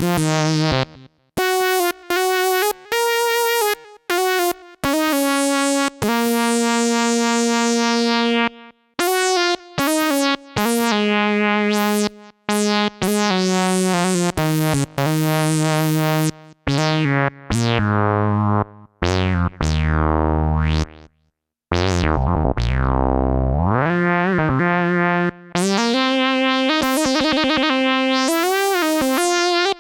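Sequential OB-6 analog polyphonic synthesizer playing a funky patch: short chords and notes broken by brief silences, some opening bright and darkening as they fade. Past the middle, a deep bass note slides down and back up in pitch.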